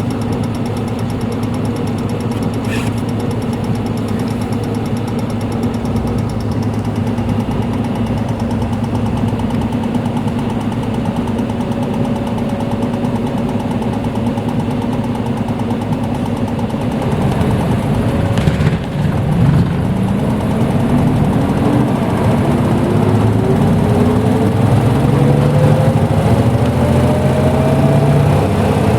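Hino Blue Ribbon U-HT2MPAA diesel bus engine heard from inside the cabin, running steadily at idle, then pulling away and accelerating with its pitch climbing steadily through the last ten seconds. A short burst of noise comes just before it starts to pull.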